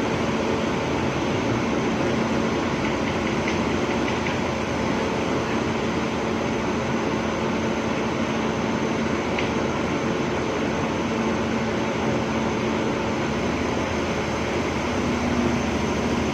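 Hydraulic excavator's diesel engine running steadily, an even mechanical drone.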